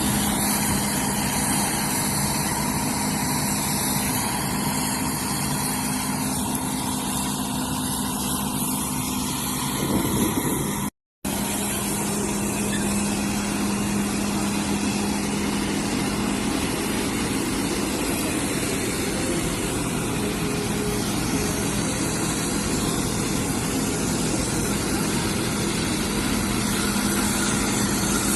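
John Deere W70 combine harvester's diesel engine running steadily, with a steady hum. The sound drops out completely for a moment about eleven seconds in, then resumes unchanged.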